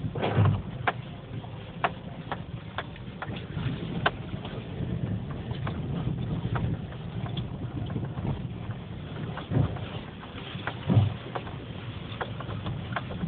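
2011 Subaru Forester driving over rough off-road ground: a steady low rumble of engine and tyres, with frequent short knocks and rattles and a few heavier thumps, one near the start and two about ten and eleven seconds in.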